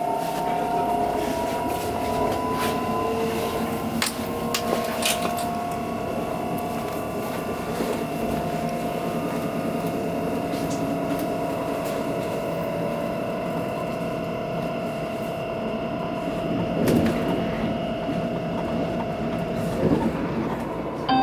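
Electric commuter train running, heard from inside the passenger car: a steady rumble with a motor whine that rises slowly in pitch over the first few seconds as the train gathers speed, then holds steady, with scattered clicks and rattles.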